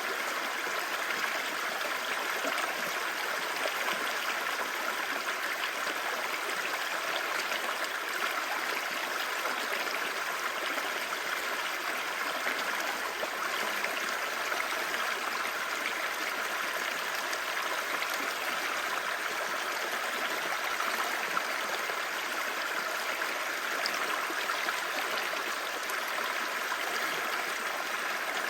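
Clear mountain stream babbling steadily over rocks, a continuous rush of water with a bright, hissy edge.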